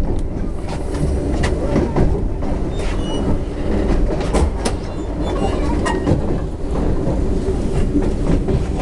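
A train running along the line, heard from inside a carriage: a steady low rumble with the wheels clacking at irregular intervals.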